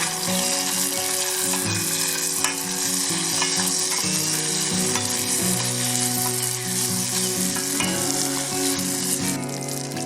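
Bacon frying in a pot over a campfire, a steady dense sizzle with fine crackles as the fat renders down.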